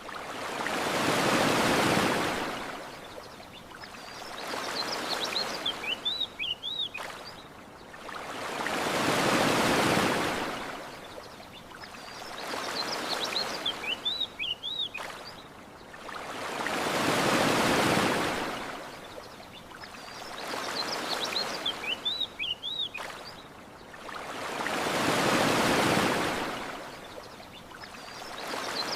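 Gentle ocean waves washing onto a beach, one swell about every four seconds, stronger and weaker ones in turn. Short, high bird chirps come in the lulls between swells.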